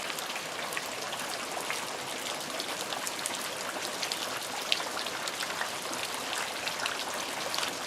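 Heavy rain falling steadily, with many individual drops spattering close by.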